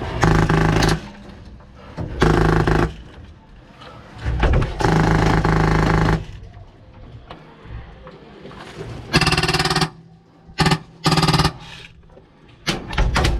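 HPA airsoft M249 light machine gun with a PolarStar engine firing short full-auto bursts, about seven, the longest near the middle lasting under two seconds, with short pauses between.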